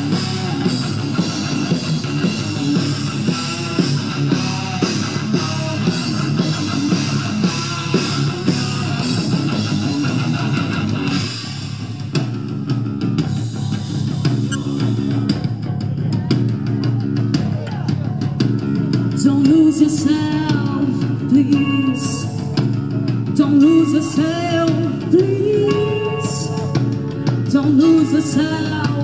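Live rock band playing, with electric guitars and a drum kit. About eleven seconds in the full sound drops back to a sparser passage, and a lead vocalist sings over it from a little before the twenty-second mark.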